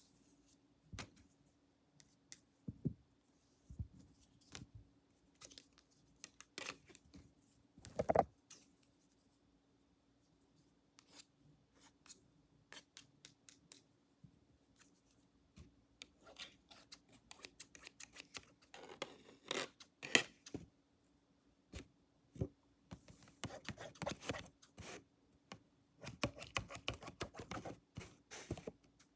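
Barber's scissors snipping close to the microphone: scattered single snips at first, then quicker runs of snips in the second half.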